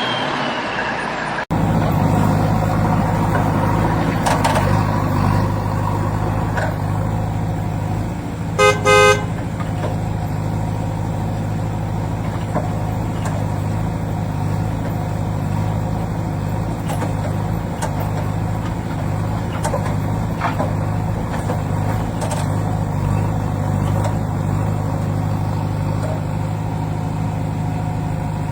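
A vehicle engine runs with a steady low hum, and a horn gives two short toots close together about nine seconds in.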